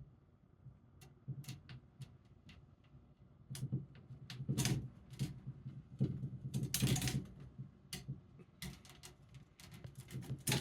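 A calico kitten's claws clicking and scratching on a chair as it climbs: irregular ticks with a few longer scratchy scrapes, busiest from about three and a half seconds in.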